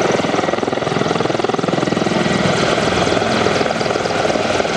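Mil Mi-24 Hind helicopter running at full power, its twin Isotov turboshaft engines and five-bladed main rotor making a loud, steady, rapid beat.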